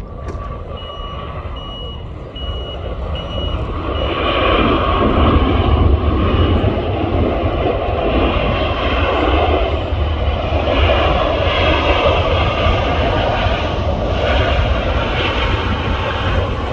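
TUI jet airliner on landing approach going past, its engine noise swelling over the first few seconds and then holding loud and steady.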